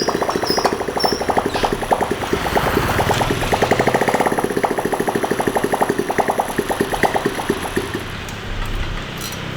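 A small single-cylinder motorcycle engine running with a rapid, even thud of firing pulses, easing off a little near the end.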